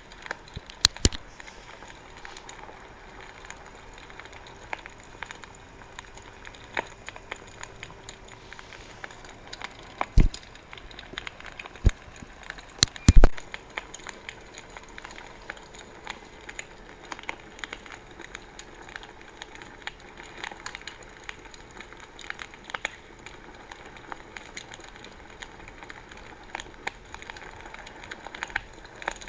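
Wood bonfire crackling, with constant small ticks and snaps and a few loud pops, the loudest about thirteen seconds in.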